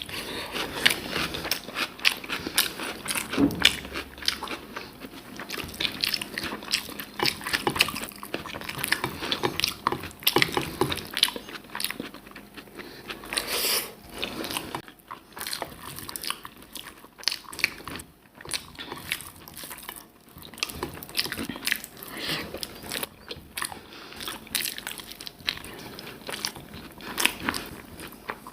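A person eating close to the microphone: chewing and biting, with many quick irregular crunches and clicks throughout.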